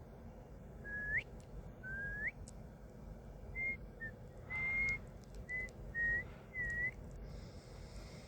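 A man whistling by mouth: two notes about a second apart that each slide sharply upward at the end, followed by a run of short, level, high notes.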